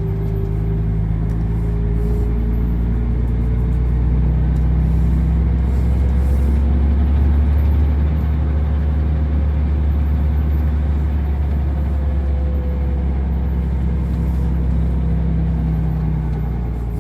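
Truck engine running under way, a steady low rumble with a thin whine on top that rises slightly in pitch toward the middle and sinks back near the end.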